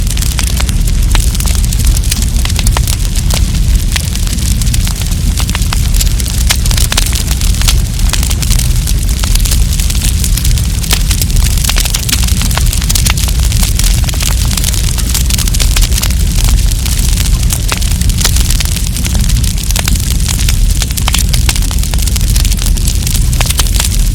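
Wood campfire burning, with dense, constant crackling and popping over a steady low rumble of the flames.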